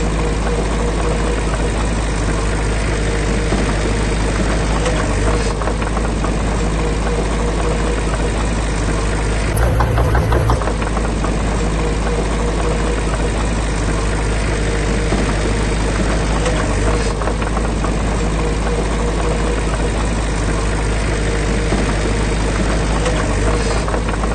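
Heavy diesel engine of earthmoving machinery running steadily, with a rattling, knocking edge.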